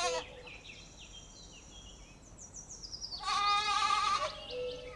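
Goat bleating: the tail of one bleat right at the start, then a second wavering bleat about three seconds in that lasts about a second. Faint high chirping comes in between.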